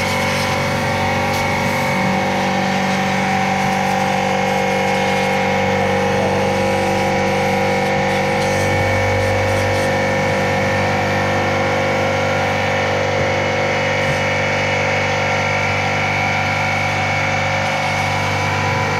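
Air compressor running steadily, a continuous motor hum with several held tones, supplying air to blow dust out of an RV air conditioner. The low hum swells briefly about nine seconds in.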